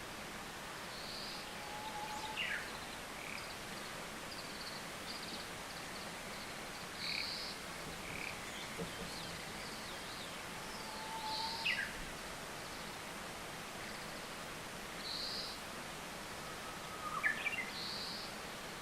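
Wild birds singing and calling off and on: short high notes and a few quick falling whistles, over a steady background hiss.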